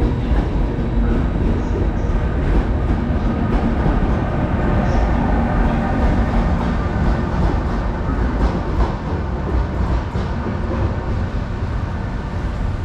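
Passenger train rolling past along the platform: a steady rumble of wheels on the rails with a few steady tones from the locomotive on top, easing a little in the second half as the tail locomotive goes by.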